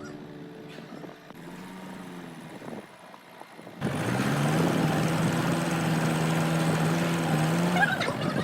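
Music fades, then about four seconds in a machine motor starts up with a quickly rising hum and runs steadily.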